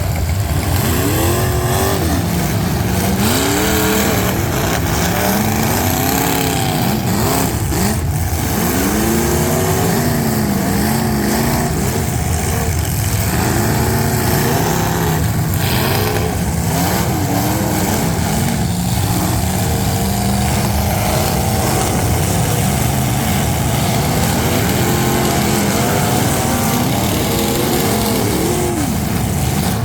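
Several full-size demolition derby cars' engines revving up and down, overlapping and loud throughout, with a couple of sharp knocks about eight and sixteen seconds in.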